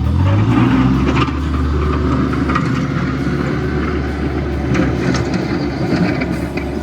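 RK24 subcompact tractor engine running steadily under load, its pitch rising at the start as it revs up, with a few sharp knocks and clanks from the box blade working dirt.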